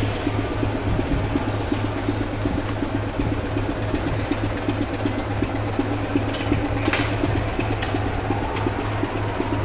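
An engine idling steadily with a low, fluttering hum, and a few sharp clicks a little past the middle.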